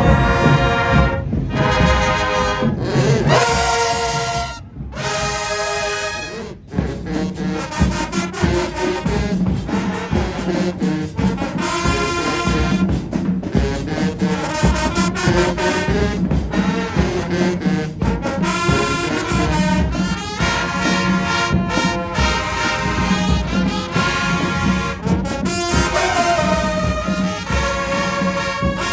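Marching band brass section, trombones and trumpets, playing loud held chords and phrases, with two brief breaks about five and six and a half seconds in.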